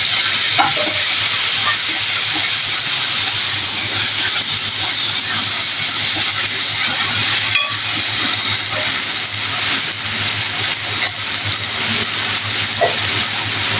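Tomato purée and green chillies sizzling hard in hot oil and fried onion masala in a non-stick kadhai: a loud, steady hiss, with a few light scrapes of a steel ladle stirring. The sizzle eases a little over the last few seconds.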